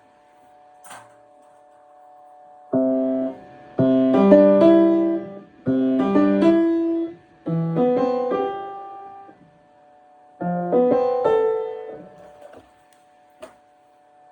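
Piano played in short phrases of chords and melody, stopping and starting again four or five times, as in practising a passage.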